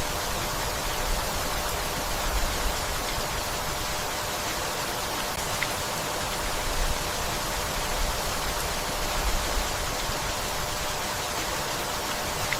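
Steady rainfall, an even hiss of rain with faint low rumbles swelling now and then.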